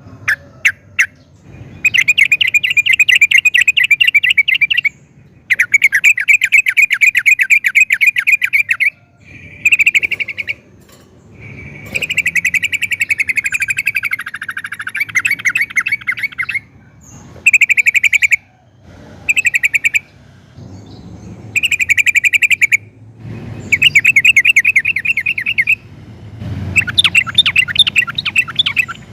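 Yellow-vented bulbul (trucukan) singing: phrases of fast, rapidly repeated chattering notes, each lasting one to four seconds, with short pauses between them.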